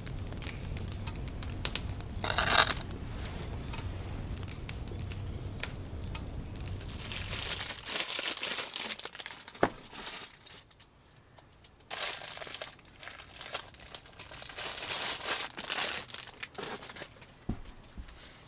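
Crinkling and rustling of handled material in several stretches, over a low steady hum that stops about eight seconds in.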